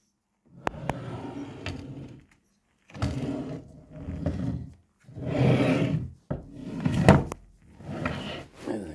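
Handling noises in a workshop: a run of scrapes, rubs and knocks in several separate spells, with a sharp knock about seven seconds in, as things are shifted and handled on a hard surface.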